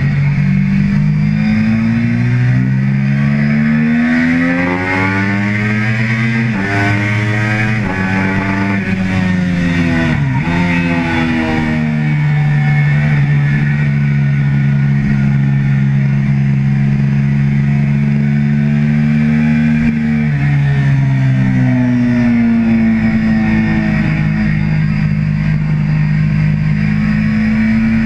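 Triumph sport bike's engine under hard riding on track. The pitch climbs and drops back several times in the first ten seconds as it shifts up through the gears, then falls sharply about ten seconds in. It holds one steady high note for several seconds, steps down, and climbs again near the end, with steady wind rush at the onboard microphone.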